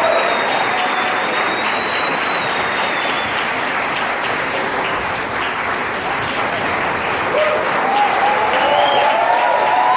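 Theatre audience applauding steadily, with a few voices calling out over the clapping from about seven seconds in.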